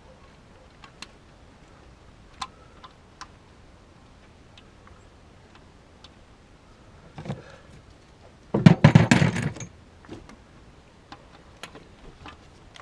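Metal hand tools and engine parts being handled: scattered light clicks and clinks, a knock about seven seconds in, then a loud rapid rattle lasting about a second.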